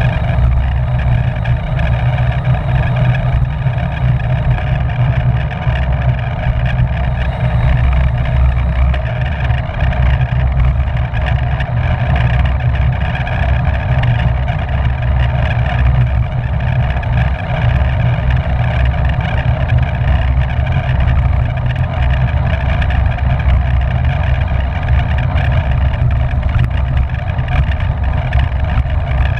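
Wind buffeting the microphone of a camera on a bicycle ridden at racing speed: a loud, steady low rumble with a steady hiss above it.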